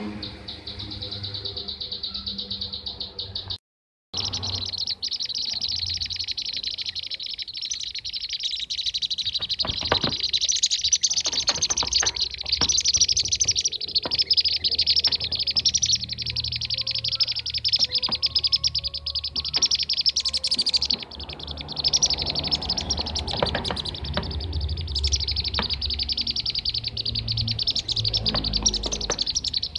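A flock of bee-eaters (kirik-kirik) calling in a dense, continuous chatter of rapid, high chirps. The sound cuts out completely for about half a second a few seconds in.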